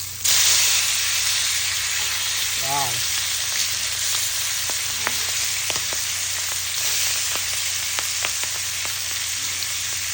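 Salmon sizzling on a hot grill, the sizzle jumping suddenly louder a moment after the start as the fish is turned, then going on steadily with scattered crackling pops.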